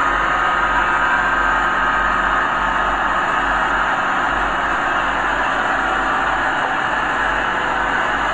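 Diesel engine of earthmoving machinery running steadily at a constant speed.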